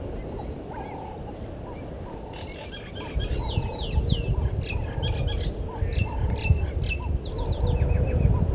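Wild birds calling: a steady run of short, low calls, joined about two seconds in by a flurry of high, falling chirps. About three seconds in, a low rumbling noise comes in and becomes the loudest sound.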